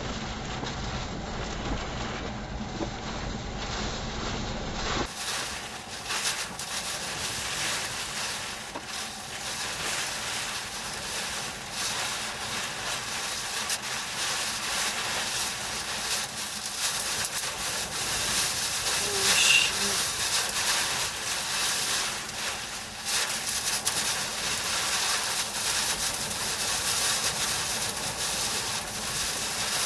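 Tornado winds, estimated at about 100 mph, making a steady rushing noise with a louder surge about two-thirds of the way through.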